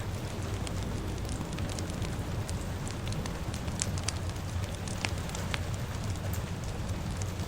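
Wood fire crackling, with scattered sharp pops over a steady hiss and low rumble that suits rainfall.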